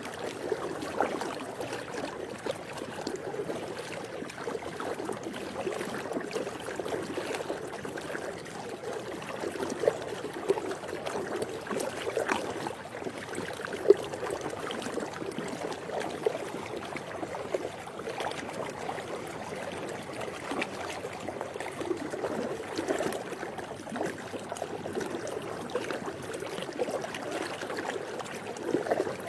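Swimming pool water gently lapping and trickling: a steady wash dotted with small splashes and gurgles, with one sharper splash about halfway through.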